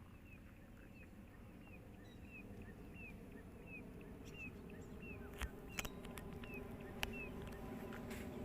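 A bird giving a series of short, falling high chirps, about two a second, with a few sharp clicks in the second half.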